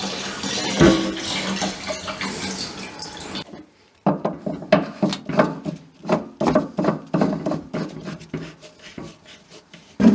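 Seafoam fuel treatment glugging out of its can into an outboard skiff's fuel tank for about three and a half seconds. After a short break comes a run of short, irregular strokes, two or three a second, from something unseen.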